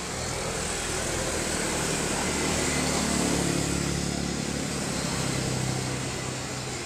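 A motor vehicle engine running with a steady hum and noise, growing a little louder around the middle and easing off toward the end.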